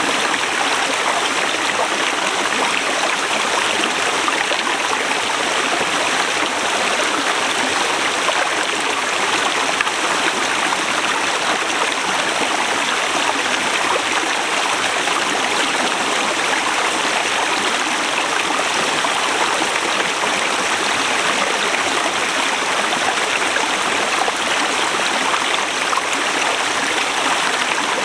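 Forest river rushing steadily over rocks, a continuous even wash of flowing water.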